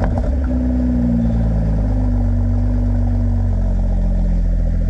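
2020 Toyota GR Supra engine idling through its aftermarket HKS exhaust just after a start, the high start-up idle settling to a lower steady idle about two to three seconds in.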